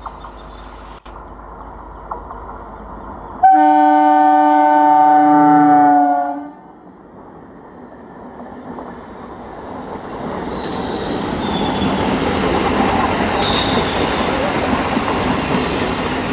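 Electric multiple-unit (EMU) local train sounding its horn in one long steady blast of nearly three seconds, about three seconds in. The train then passes close by, its wheels rumbling louder and louder over the rails with a few sharp clacks from the rail joints.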